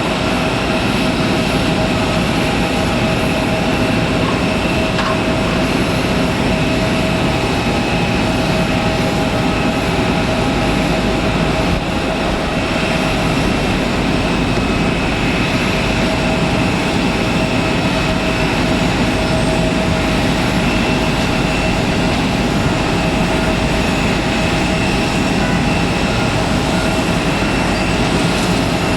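Jet airliner engines running close by: a loud, steady rush with a high, even whine on top.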